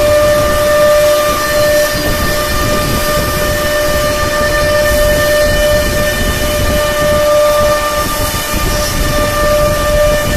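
CNC router spindle running at speed: a steady high-pitched whine with overtones, over a rushing, hissing noise.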